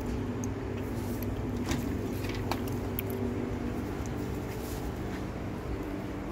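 Steady low hum of a running engine, with scattered small clicks over it.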